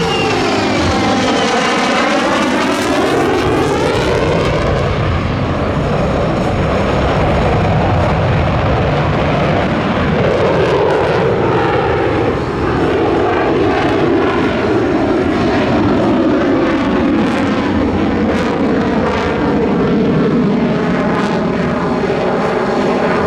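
An F-35 Lightning II's single afterburning turbofan, loud as the fighter flies past. In the first few seconds the noise has a hollow sweeping sound that falls and rises again, then it settles into a steady loud rush.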